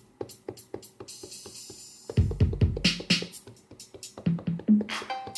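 Drum-kit samples triggered from a Native Instruments Maschine Mikro MkII's pads: an irregular run of sharp drum-machine hits, with a cluster of deep kick drums about two seconds in and a few short pitched low notes near the end.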